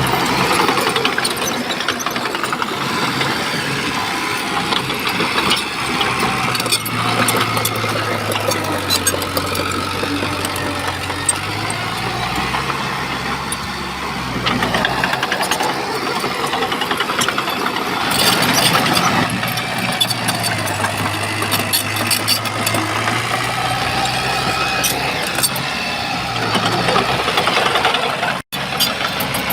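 Shantui bulldozer's diesel engine working under load with metallic clatter and rattling. The engine pitch rises about a third of the way through and drops back later, and the sound cuts out for an instant near the end.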